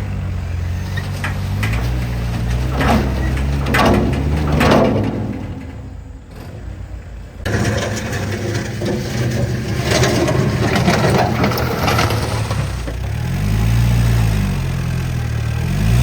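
Truck engine running, its pitch rising and falling with the revs, with bursts of noisy rustling over it; the sound drops away briefly midway and comes back suddenly.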